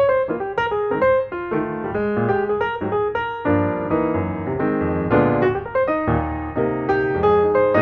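Background piano music, a steady run of notes with no voice over it.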